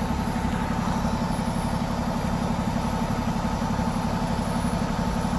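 A vehicle engine idling steadily, with a fast, even throb.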